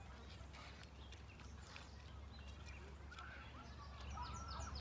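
Faint bird calls, short chirps that come more often in the second half, over a steady low background rumble, with a few light clicks.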